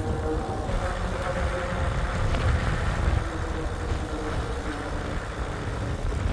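Wind buffeting the microphone with a steady low rumble, over a faint continuous hum.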